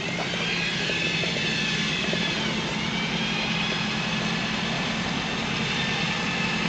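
A motor's high whine that drifts up and down in pitch over a steady low hum.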